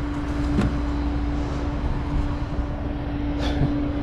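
Truck engine running steadily, a constant hum over a low rumble.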